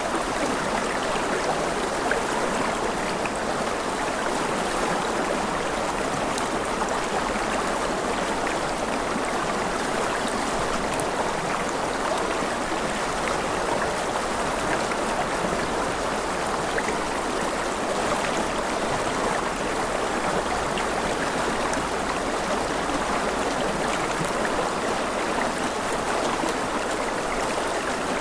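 Steady rushing of a flowing stream, an even, unbroken sound of running water.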